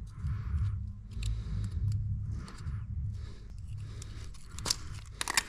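Hand work on an engine being torn down: scraping and rattling of parts and tools, with a few sharp clicks near the end, over a low steady rumble.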